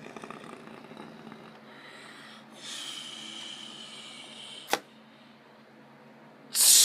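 Water spray from an automatic car wash hissing in bursts: a faint spray about two and a half seconds in that ends in a sharp click, then loud spray starting again near the end.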